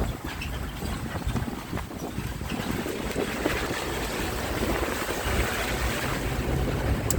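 Wind buffeting the microphone over the low, uneven rumble of a moving bus.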